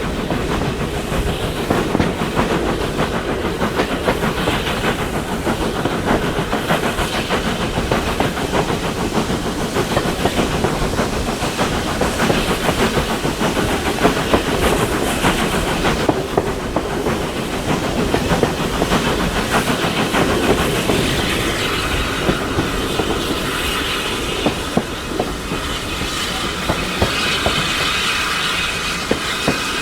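Steam-hauled train behind Caledonian Railway 0-4-4T tank engine No. 419 running along the track: a steady rumble with the clickety-clack of wheels over rail joints. About two-thirds of the way through, a higher hissing sound joins in.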